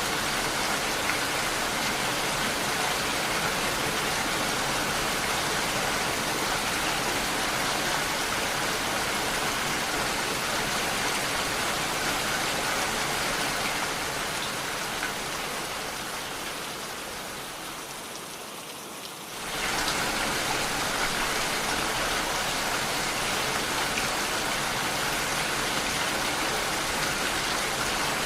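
Steady rain falling, an even dense hiss. A little past halfway it fades down over several seconds, then comes back in suddenly at full level.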